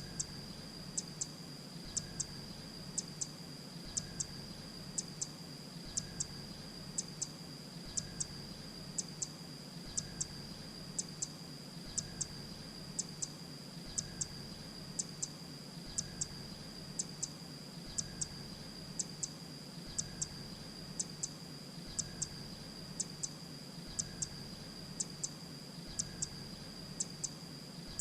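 Grey-breasted prinia calling: short, very high chip notes in twos and threes, repeated evenly about once a second, over a steady high-pitched ringing tone.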